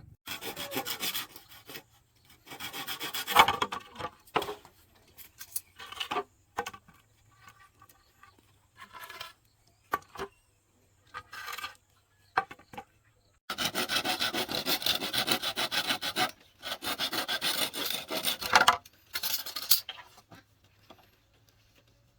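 Rasping, sawing-like strokes of a hand tool working bamboo, in irregular bursts, with the two longest runs about two-thirds of the way through.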